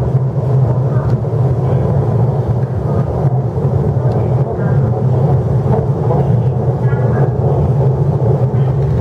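Interior running noise of an MTR East Rail Line R-Train electric multiple unit at speed: a steady low rumble and hum of wheels on rail and traction equipment, heard inside the car by the doors. Faint voices show through now and then.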